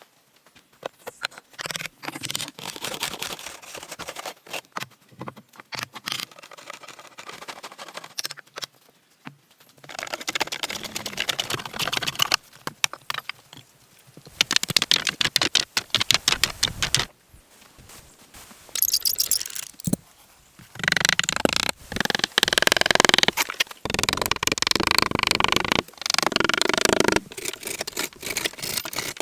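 Irregular scraping, rustling and knocking of hand work, coming in uneven spells with short pauses between them.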